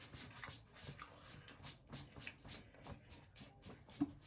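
Faint chewing and wet mouth clicks from someone eating a sub sandwich, with a slightly louder click near the end.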